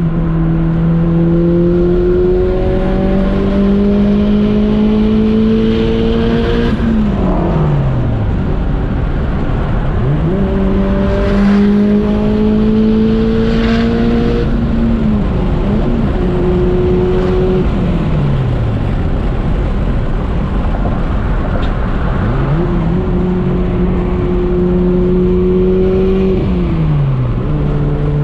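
Turbocharged Honda Prelude's engine making street pulls under load. Its note climbs steadily for several seconds, then falls away steeply as the throttle is lifted, about four times over.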